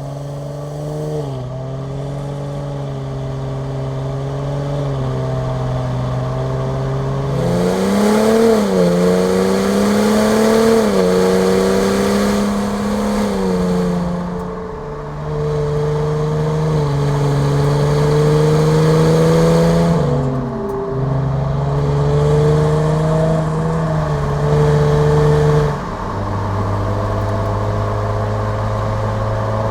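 Cadillac CT5 sedan's engine and exhaust idling, revved up and held several times, each time settling back, and dropping to a lower, steadier idle near the end.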